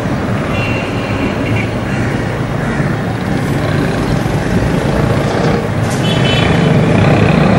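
Steady urban traffic rumble, slowly getting louder, with a couple of faint, brief higher tones over it.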